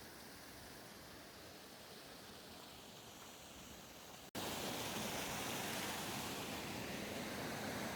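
Steady rushing of a river waterfall. It cuts out for an instant about four seconds in and comes back noticeably louder.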